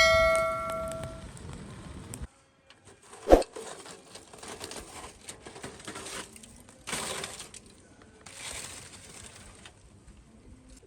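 A ringing metallic clink that dies away over about a second, then a single sharp knock and a couple of short rustling scrapes.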